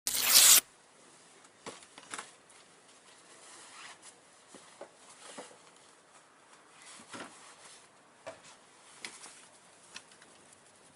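A brief loud burst of noise at the very start, then a small bonfire of dry leaves and twigs crackling, with faint scattered pops and rustles.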